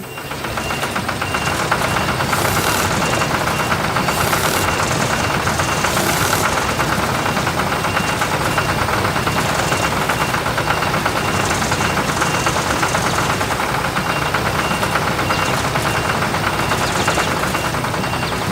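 A vehicle engine running steadily with a fast, even pulse, building up over the first second or two.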